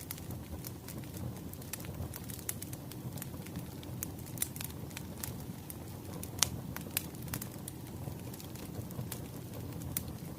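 Wood fire crackling: a steady low rumble with scattered sharp pops and snaps, the loudest pop about six seconds in.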